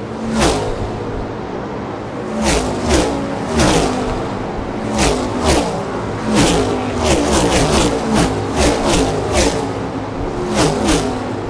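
NASCAR Cup Series stock cars with V8 engines racing past one after another at full speed, the pitch of each car dropping as it goes by. The passes come in quicker succession in the second half as a pack goes through.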